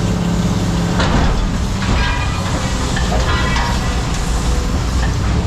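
Heavy diesel machinery running steadily with a low hum, with a few metal clanks and brief squeals about one and two seconds in.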